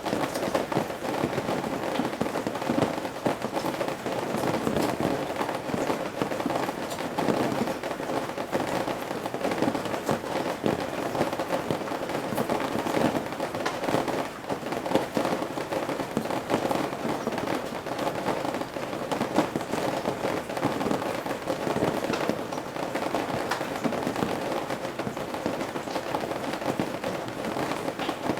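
Rain falling from the eaves of a roof: a steady, dense patter of many separate drops splashing.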